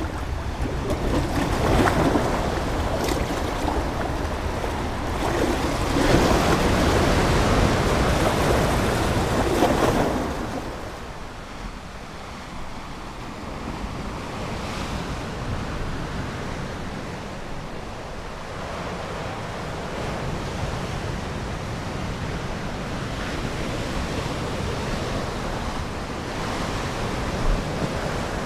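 Ocean waves breaking and washing ashore. Two louder surges come in the first ten seconds, then a softer, steady wash.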